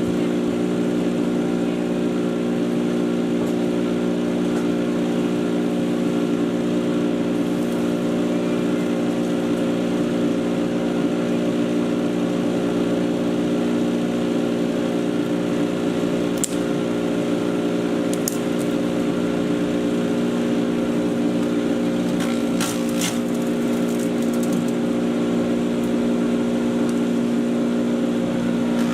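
Patriot 1.5-HP electric chipper shredder running steadily with a constant hum, with a few brief ticks in the second half.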